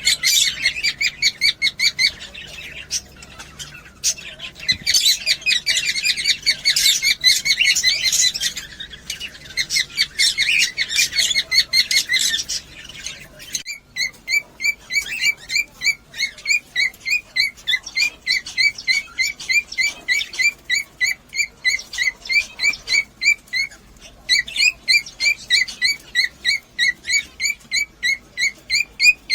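Cockatiels chirping and chattering together. After a brief break about halfway through, a single bird repeats a short chirp at an even pace of about two or three a second, pausing once near the end.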